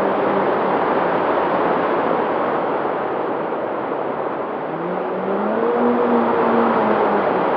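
Steady rushing noise of an engine running, with a few held tones that step down in pitch at the start and glide up and return about five seconds in.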